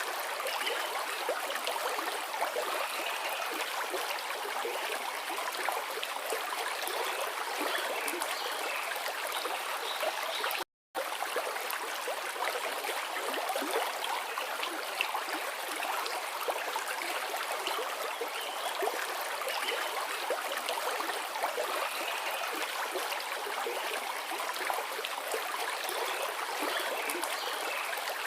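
River water flowing steadily, with a brief cut to silence about eleven seconds in.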